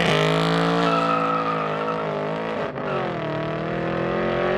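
A vehicle engine held at high revs, its pitch wavering and dipping briefly about three seconds in before climbing back.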